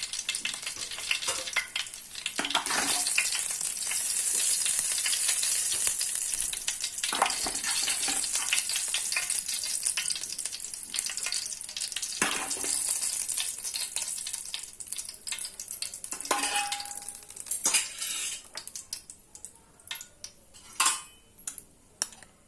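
Chicken pieces sizzling in hot ghee and oil in a pan, with a few sharp clinks and knocks of a utensil against the pan as the pieces are lifted out. The sizzle fades away over the last several seconds.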